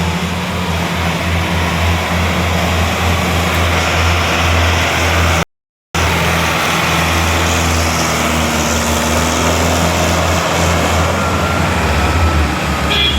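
Tractor diesel engine running steadily with a loud, even low hum. The sound cuts out completely for a fraction of a second about halfway through.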